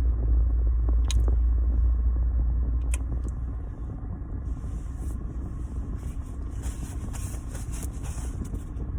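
Low steady rumble inside a car, easing off about halfway through, with two sharp clicks in the first few seconds. A crackly rustle comes and goes through the second half.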